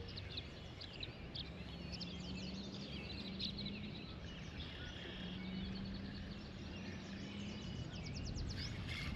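Several songbirds chirping and warbling in a faint, steady outdoor chorus, with a fast trill near the end.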